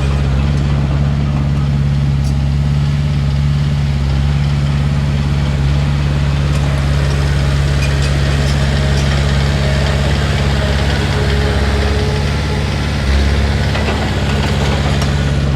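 Komatsu D31P bulldozer's diesel engine running steadily at low revs, with a brief change in its note near the end.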